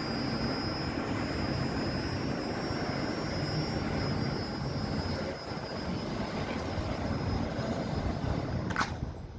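Steady roar of outdoor background noise with a faint high whine. Near the end comes a quick falling sweep, and then the noise drops away suddenly.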